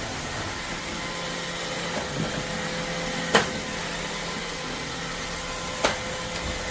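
iRobot Roomba Combo (Y0140) robot vacuum running with a steady hum and a faint whine. Two sharp knocks come about three and a half and six seconds in.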